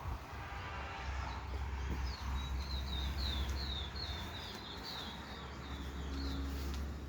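A bird singing a quick run of short, high chirps for about four seconds, over a steady low rumble.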